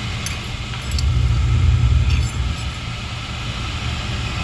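Crown oil boiler's oil burner running steadily after lighting: a low rumble of flame and blower, swelling slightly for about a second, with a few light clicks. It fires now that trapped air has been bled from the oil line.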